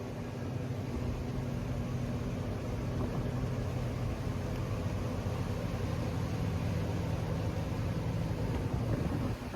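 Boat engine running steadily under way, with a steady low hum that grows louder over the first second and drops briefly just before the end.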